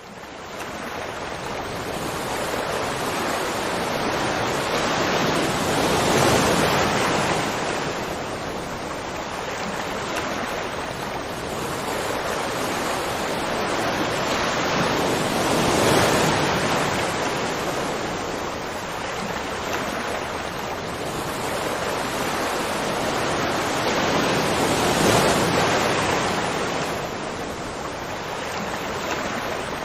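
Rushing water: a steady roar that swells and eases about every ten seconds.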